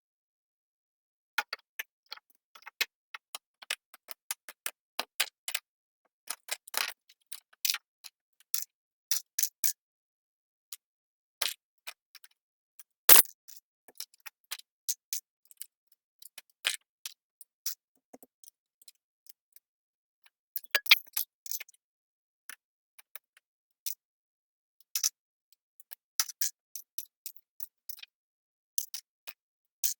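Small plastic Lego pieces clicking and tapping as they are handled and pressed together or pulled apart: irregular sharp clicks with gaps between, the loudest one about halfway through.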